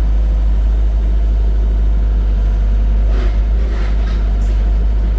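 Engine of the grapple machine loading firewood, running steadily with a low drone, with a faint clatter about three seconds in.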